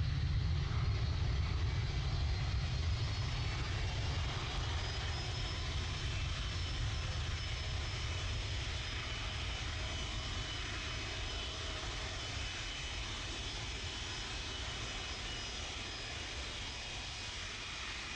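Airliner's jet engines rumbling as the aircraft climbs away after takeoff, slowly fading, with a faint high whine above the rumble.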